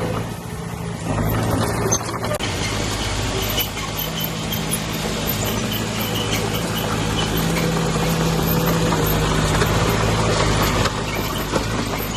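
Heavy diesel engine running steadily on earthmoving equipment, getting louder about a second in.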